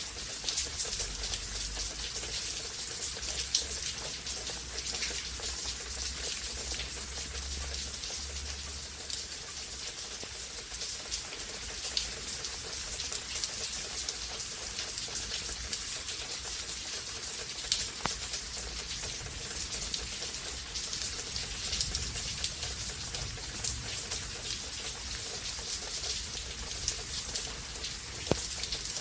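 Steady rain falling, with many separate drops striking close by as sharp ticks, a few louder than the rest. A low rumble sits under it for the first eight seconds or so.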